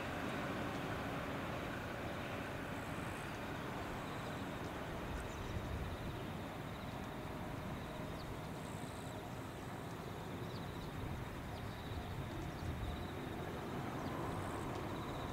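Four-car JR West 213 series electric train running away along the line, a steady low rumble of wheels on rail, dipping a little as it recedes. A thin, high steady buzz lies over it.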